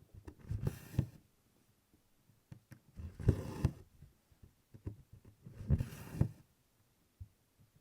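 Cross-stitching by hand: a needle pushed through 24-count canvas and stranded cotton floss pulled through after it. This comes three times, about every two and a half seconds, each stroke a few soft taps and a short rustle.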